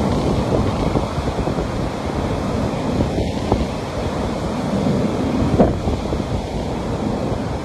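Sea waves washing on a beach, a steady rush of surf with small crackles, mixed with wind buffeting the microphone.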